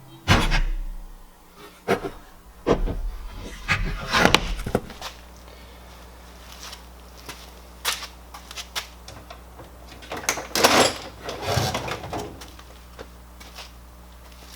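Irregular clicks, knocks and clatter of tools and parts being handled on a workbench. A steady low hum sets in about five seconds in.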